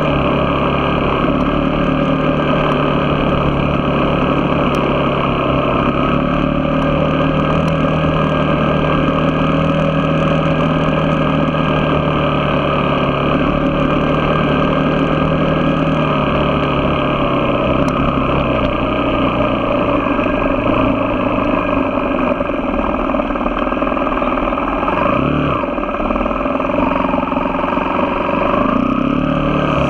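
Engine of a moving vehicle running steadily under way, its pitch dipping and then rising again near the end.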